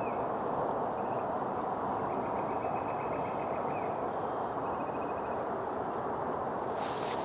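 A steady rushing background noise carries faint small-bird calls, including a rapid trill of repeated notes lasting about two seconds. A brief burst of hiss near the end may be a rustle or handling.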